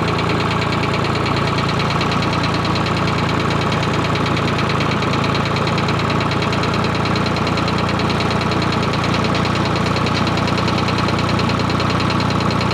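Ford 4000 tractor engine idling steadily with an even firing beat, warming up from cold on its first run after a coolant refill, its temperature just starting to rise.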